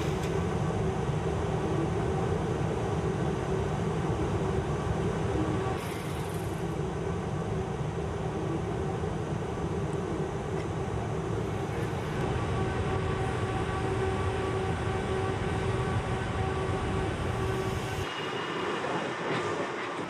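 Steady factory-floor machinery noise: a continuous low rumble with several steady hums over it. It shifts about six seconds in, and near the end the deepest rumble drops away.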